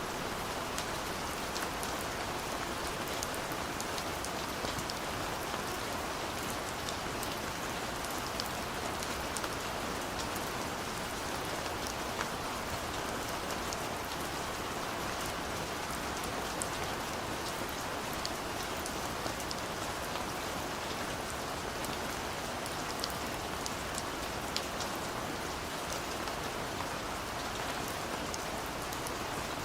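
Steady rain falling on a surface, an even wash of noise with many small drop ticks throughout.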